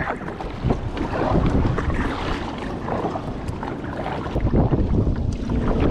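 Wind buffeting the microphone over open water, with irregular splashing of water around a kayak.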